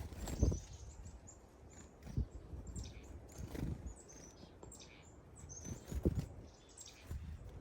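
Small songbirds giving many short, high chirps and calls, with a few footfalls of someone walking on the trail.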